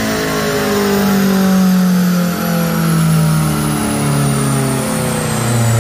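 A 2014 BMW M5 F10's twin-turbo V8, breathing through catless downpipes, winding down on a chassis dyno after a pull: the engine note falls steadily in pitch while a high whine slides down with it.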